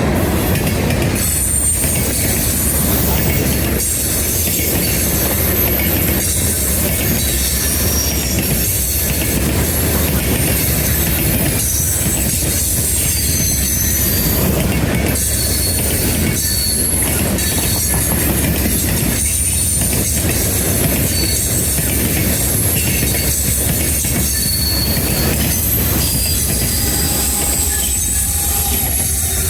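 Norfolk Southern train rolling past, its steel wheels squealing against the rail in short high-pitched bursts over a steady rumble, with repeated clanks from the cars.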